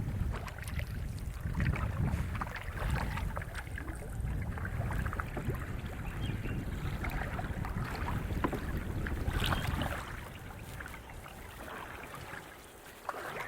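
Wind buffeting the microphone as a low rumble, with small splashes and knocks of a canoe on the water. The wind rumble eases off about ten seconds in.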